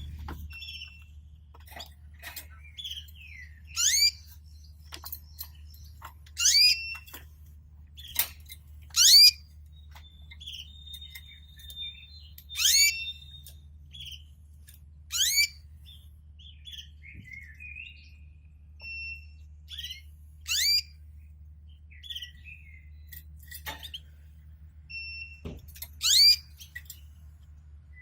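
Domestic canaries calling: loud, sharp chirps that sweep down in pitch, one every two to three seconds, with softer short twitters between them, over a low steady hum.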